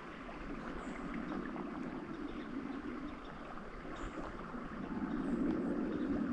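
Moving river water running steadily, a little louder near the end.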